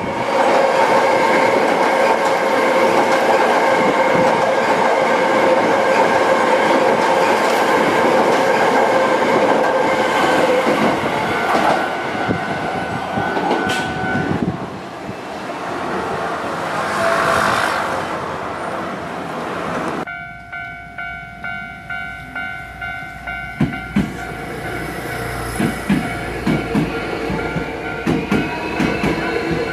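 Hankyu electric train running through a level crossing, its wheels clattering over the rail joints. About two-thirds of the way in the sound changes abruptly to a Japanese level-crossing warning bell ringing about twice a second, followed by train wheels knocking again.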